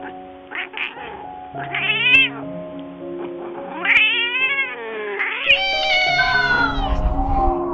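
A cat meowing three times over background music, the last meow long and falling in pitch.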